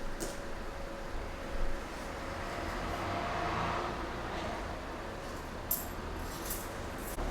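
A vehicle passing: a low rumble that swells about halfway through and fades again, with a few light clicks near the end.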